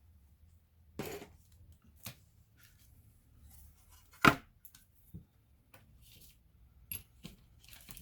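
Sharp clicks and knocks of small plastic and metal laptop parts and hand tools being handled: a clatter about a second in, the loudest knock about four seconds in, and two quick clicks near the end.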